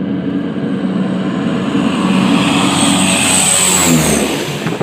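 Canadair CL-415 water bomber's twin turboprop engines passing very low overhead: a loud propeller drone with a high whine that builds, then drops in pitch as the plane goes by near the end.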